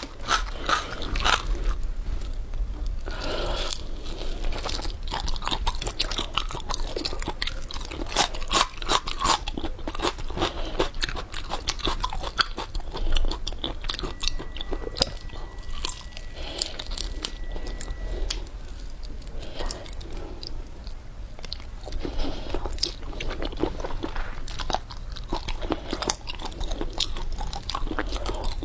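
Close-miked eating of seafood: continuous crunching, biting and wet chewing with many sharp crackles. A faint thin high tone sounds for a few seconds about halfway through.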